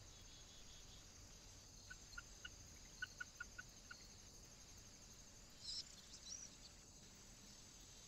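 Bird calls: a run of about eight short, quick pips in the middle, then two brief higher calls about a second and a half later, over faint steady hiss.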